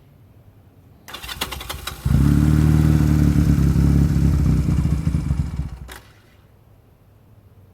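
Honda CMX250 Rebel's 234 cc parallel-twin engine with Jardine Slashcut pipes cranking for about a second, catching and running loudly for about three seconds, then dying away with a click just before the end.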